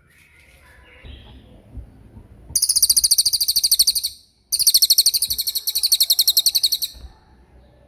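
Songbird giving two fast rattling trills of high, evenly repeated notes, about a dozen a second: the first starts about two and a half seconds in and lasts a second and a half, the second follows after a brief pause and lasts about two and a half seconds. Softer chirps come before them.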